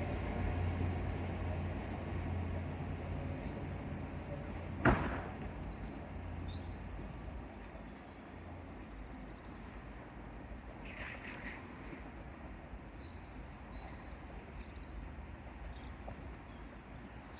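Train's low engine rumble fading away as it draws off, dying down over the first eight seconds or so. A single sharp click about five seconds in.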